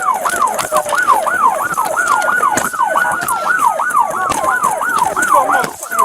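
Police sirens: one in fast yelp mode, sweeping up and down about three times a second, overlapping a second siren in a slow wail that rises and falls once.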